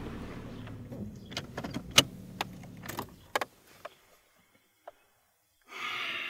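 A Nissan Maxima's engine running low in the cabin, then dying away about three and a half seconds in, with a scatter of sharp clicks and small rattles, the loudest about two seconds in. After a short quiet, a breathy exhale near the end.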